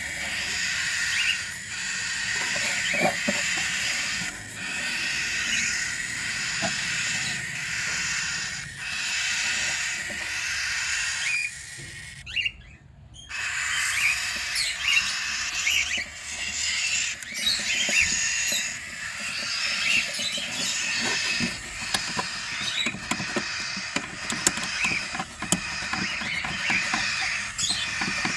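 Cockatiels chattering and calling, a dense mix of short chirps and hissy squawks, with a short break near the middle.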